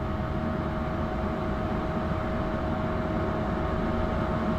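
Propane furnace running while its gas pressure is being adjusted: a steady burner and blower rumble with a constant thin whine over it.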